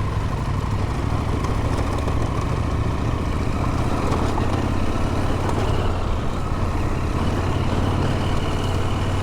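Adventure motorcycle engine running steadily while riding, a constant low hum under an even rushing noise.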